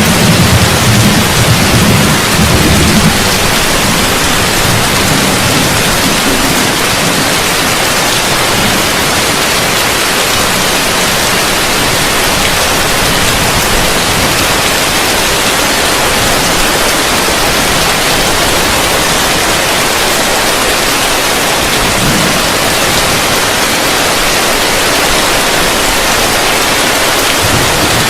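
Heavy rain falling on a roof: a steady, dense hiss. A low rumble sits under it for the first three seconds and then drops away.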